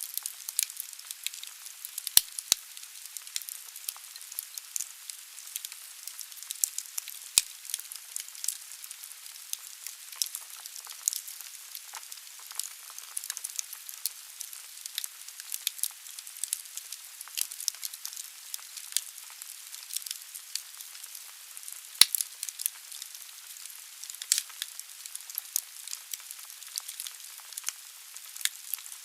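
Wood fire crackling in a fireplace: a steady hiss with many small sharp pops, and a couple of louder snaps about two seconds in and near the middle.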